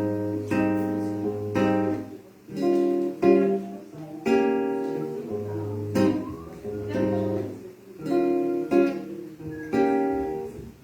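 Acoustic guitar strumming chords, a new strum about every second.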